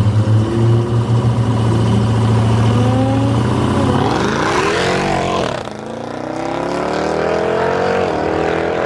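Jeep Grand Cherokee Trackhawk's supercharged 6.2-litre V8 accelerating hard away: a steady low rumble, then about four seconds in the pitch climbs sharply, drops at a gear change, and climbs steadily again.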